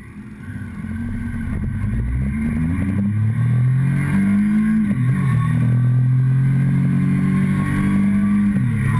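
Motorcycle engine heard from the fuel tank, fading in over the first second. It accelerates with its note rising steadily, then drops in pitch at an upshift about five seconds in and again near the end.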